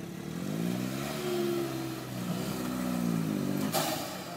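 Suzuki Jimny's engine revving twice under load as it pushes through deep mud, the pitch climbing and dropping each time. A brief burst of noise comes just before the end.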